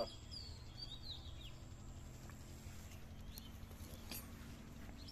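Small birds chirping in short sliding calls during the first second and a half, over a low steady background hum, with a couple of faint ticks later.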